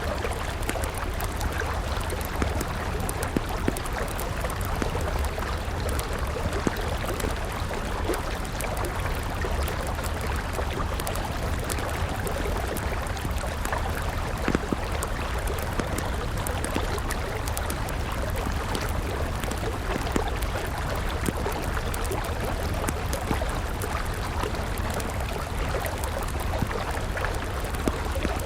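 A river flowing steadily beside a wood campfire, with the fire's crackles and sharp pops scattered through the rush of water.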